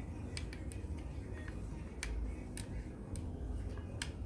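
Several sharp, light clicks at uneven intervals, over a low steady hum: small hard parts being handled on the workbench.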